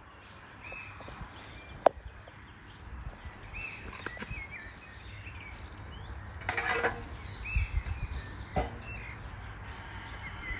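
Rural outdoor ambience: small birds chirping in short calls now and then over a steady low rumble, with two sharp clicks and a brief noisy burst.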